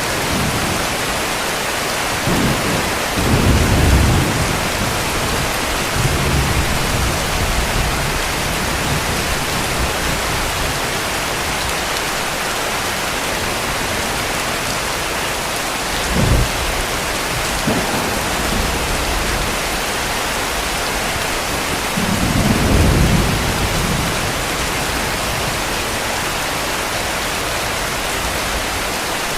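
Heavy rain falling steadily, with distant thunder rolling in low rumbles about 3 seconds in and again past the 20-second mark, and a short sharper clap about halfway through.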